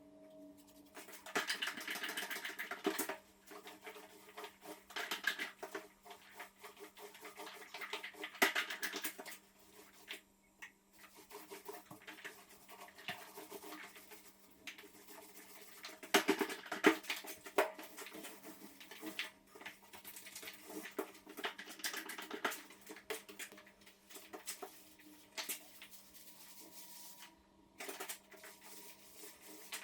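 Irregular scraping and rubbing strokes, in short uneven bursts, over a faint steady hum.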